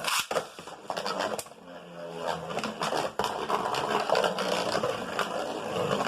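Beyblade Burst tops spinning and scraping against each other in a plastic stadium, with sharp clacks as they collide. The loudest clack comes right at the start, and a few more follow in the first few seconds.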